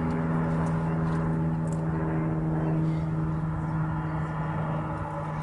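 Aircraft engines running with a steady drone and several level humming tones, neither rising nor falling.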